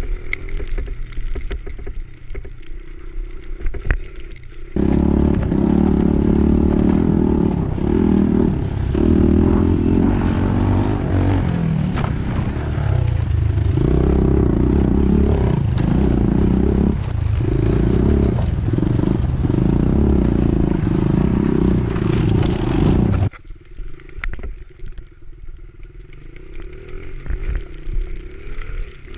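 Pit bike engine running loud and close, its revs rising and falling as it is ridden. It comes in abruptly about five seconds in and cuts off suddenly near the end.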